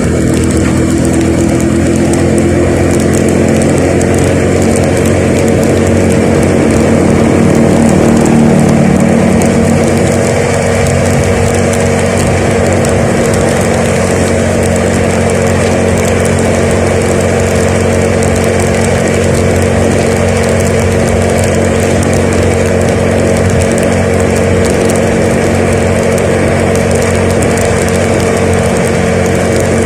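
A vehicle engine running on the road. It rises in pitch and gets louder over the first eight seconds or so as it speeds up, then eases off and runs steadily.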